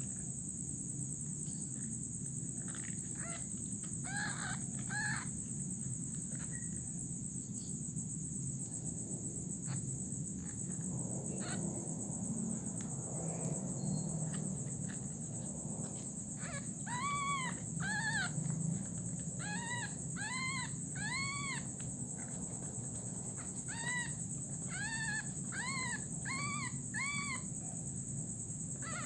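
An animal gives short, high calls that rise and fall in pitch, in runs of several about two a second, over a steady high drone of crickets or other insects.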